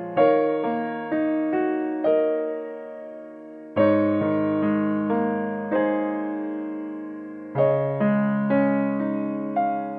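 Background piano music: a slow, gentle piece, with fuller chords struck about every four seconds and single melody notes fading between them.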